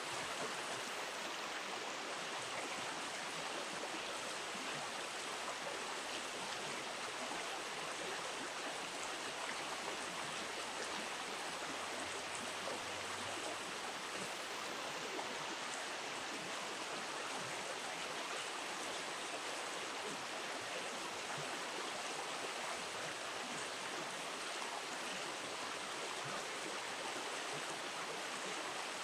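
Flowing river water rushing steadily, an even unbroken noise.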